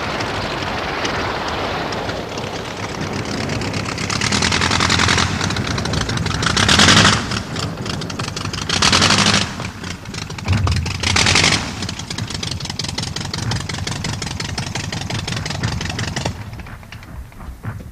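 Rapid machine-gun fire, a fast continuous rattle with louder bursts about 7, 9 and 11 seconds in.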